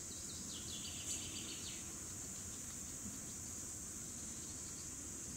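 Cicadas singing in a steady, continuous high-pitched buzz. A brief, rapid trill of short pulses sounds about half a second in and stops before two seconds.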